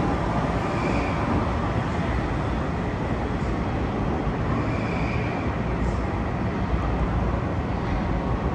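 Steady rumble and hiss of a Long Island Rail Road electric commuter train, with faint brief squeals about one second and five seconds in.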